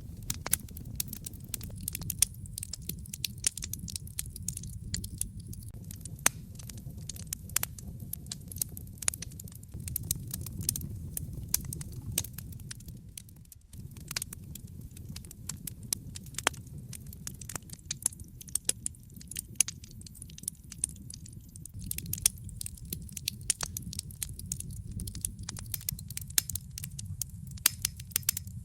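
Wood fire crackling in a fireplace: many sharp pops and snaps at irregular intervals over a steady low rumble of the burning fire.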